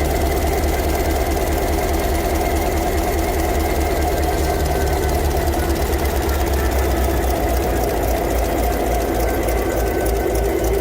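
A large engine running steadily at an even pace, with a fast, regular firing beat.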